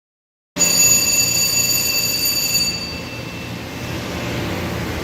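Steady machine-shop hum and fan-like noise that starts abruptly about half a second in, with several high-pitched steady whines on top that fade out around halfway through.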